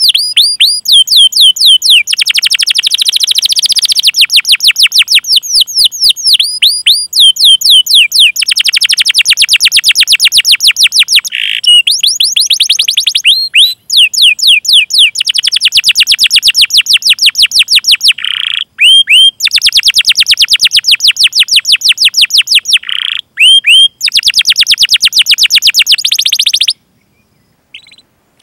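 Domestic canary singing long, rapid rolling trills of repeated high sweeping notes. The trills are broken by short pauses and brief chirping call notes, and the song stops near the end.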